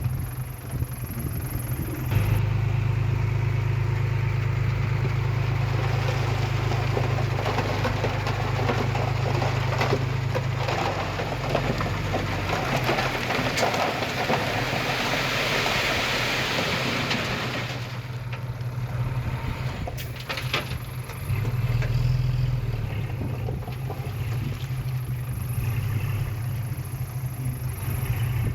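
Heavy diesel earthmoving machinery running steadily at work, with a deep engine drone. From about 11 to 18 seconds in, a louder stretch of rushing noise rises over the engine.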